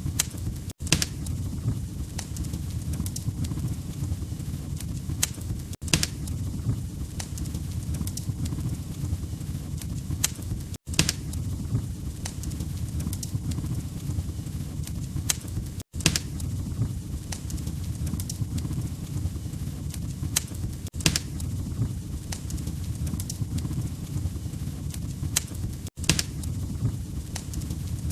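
Wood fire crackling: sharp pops and snaps over a steady low rumble. The sound cuts out for an instant about every five seconds.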